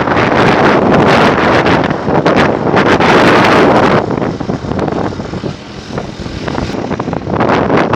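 Wind buffeting the microphone on a moving motorcycle, with the rush of the ride underneath. It is loud at first, eases off about four seconds in, and builds again near the end.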